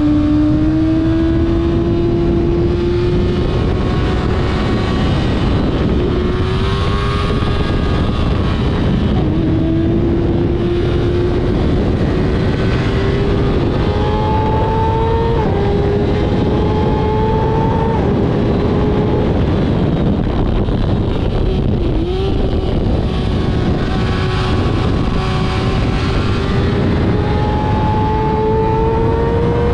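Kawasaki ZX6R inline-four engine pulling hard on track, its pitch climbing steadily and dropping back at each gear change, several times over, over heavy wind rush on the microphone.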